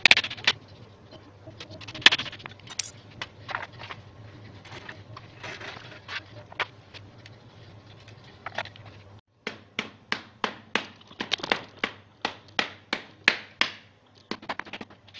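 Hammer driving nails into thin wooden strips. First come scattered sharp blows; after a short break comes an even run of blows, about three a second.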